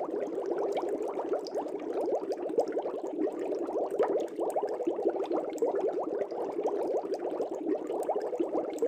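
Air bubbles streaming up through fish-tank water: a dense, continuous bubbling made of many quick little rising blips.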